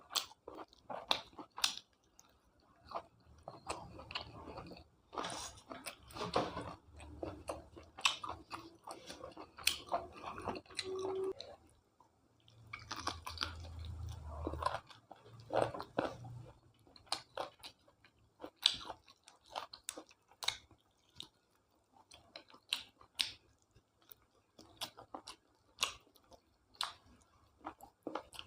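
A person chewing and biting food close to the microphone: an irregular run of small clicks and smacks, denser and fuller from about four to sixteen seconds in.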